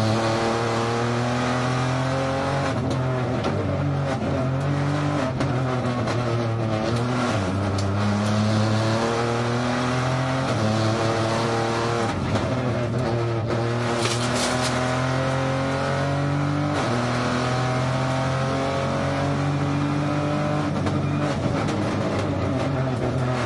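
Rally car engine at full stage pace heard from inside the cockpit, the revs climbing and dropping back again and again through gear changes.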